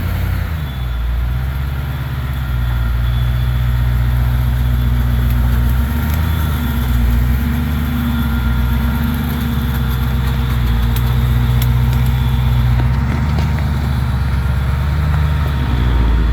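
Off-road truck engine running at low revs while crawling over an obstacle, with a few short lifts in pitch as the throttle is fed in.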